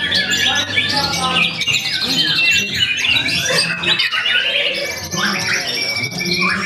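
White-rumped shama (murai batu) singing a fast, continuous, varied song of clear whistles, rapid trills and harsh squawking notes, changing phrase every second or so.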